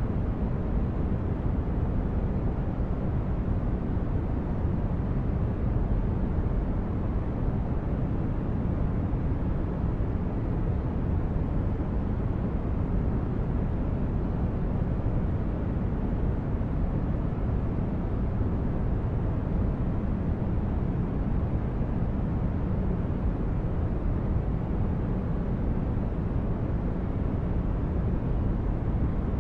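Steady, unchanging noise for sleep and relaxation, heavy in the low end: a deep, even rumble with only a little hiss above it.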